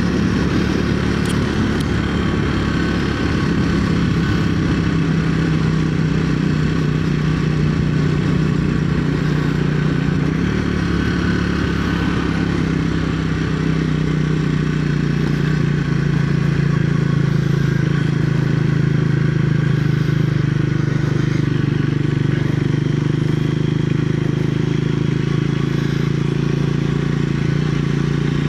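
Triumph Speed 400's single-cylinder engine running steadily while the bike is ridden, its pitch holding nearly constant with only slight rises and falls.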